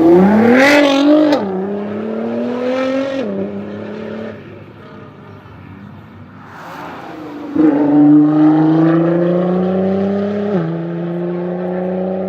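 Nissan GT-R R35's twin-turbo V6 through a Meisterschaft aftermarket exhaust, accelerating hard. The engine note climbs and drops at each upshift, twice in the first few seconds, then fades away. About seven and a half seconds in, a second loud acceleration begins, with another upshift near the end.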